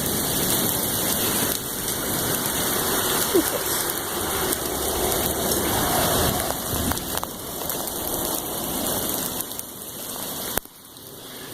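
Heavy rain falling and splashing close to the phone's microphone, a steady dense hiss; the level drops suddenly near the end.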